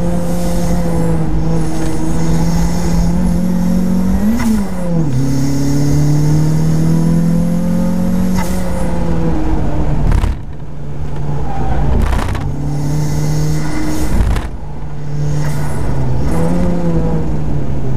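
Turbocharged Mazda MX-5's four-cylinder engine running hard on track, heard from the open cockpit. The engine note holds steady for long stretches, drops in pitch about four and a half seconds in, and dips briefly about ten and fourteen seconds in.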